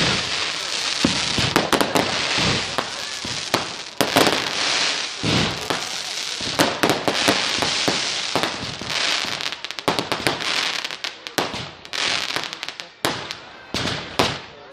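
Fireworks going off: dense crackling and sharp bangs one after another over a hissing rush, thinning to separate loud cracks in the last few seconds.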